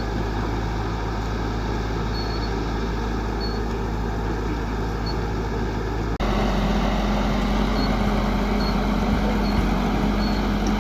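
Excavator diesel engine running steadily. It cuts abruptly about six seconds in to a louder, steady engine drone.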